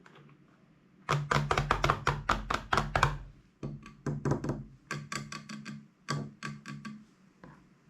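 Slime being squeezed and pressed by hand, giving runs of sharp crackling clicks in several bursts, starting about a second in and stopping near the end.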